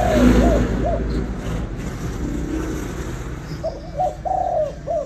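Spotted dove cooing: a phrase of several short coo notes that ends about a second in, then a second phrase starting past three and a half seconds, over a steady low rumble.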